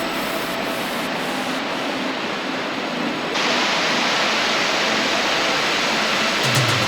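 River water rushing steadily, growing louder and brighter about halfway through.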